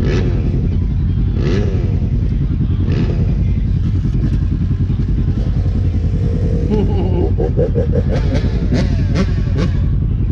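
RZR side-by-side's engine running steadily, with clattering knocks from the machine over rough ground, several in quick succession near the end.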